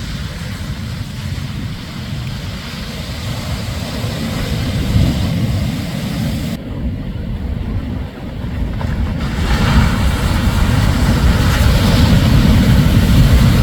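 Shorebreak surf crashing and washing up the beach, with wind rumbling on the microphone. The surf hiss swells louder from about ten seconds in as a wave breaks.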